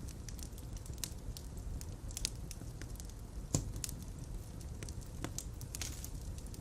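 Fireplace fire crackling and popping at irregular moments over a steady low rumble, with one sharper pop about halfway through.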